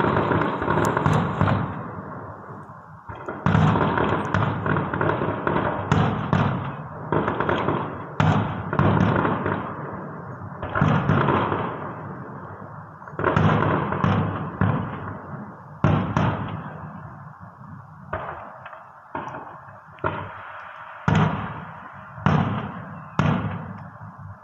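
Aerial fireworks display: shells bursting one after another in booms about once a second, some in quick clusters, each dying away in a rolling echo.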